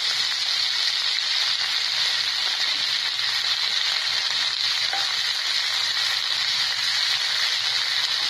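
Thuthuvalai leaves frying in hot oil in a nonstick pan, a steady sizzling hiss, while a wooden spatula stirs them.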